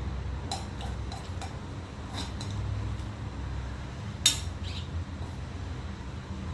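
Utensils clinking against dishes: a few light taps, then one sharp clink a little past four seconds, over a steady low hum.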